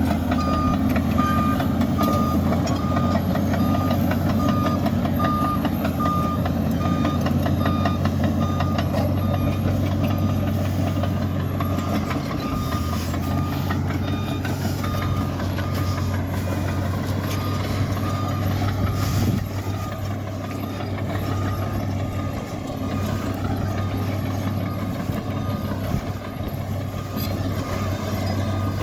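Komatsu bulldozer's diesel engine running steadily while its reversing alarm beeps over and over, a single-pitch beep repeating about every half second. The engine note drops a little about two-thirds of the way through.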